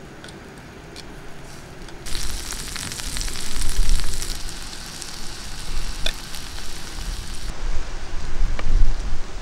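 Mushrooms frying on a hot stone slab over a campfire: a dense sizzle with scattered crackles starts about two seconds in and dies down a couple of seconds before the end. Low rumbles come and go underneath.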